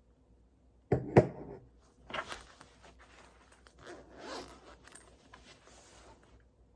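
Close handling noises: two sharp knocks about a second in, followed by a few short rasping scrapes, like a zipper or fabric being pulled.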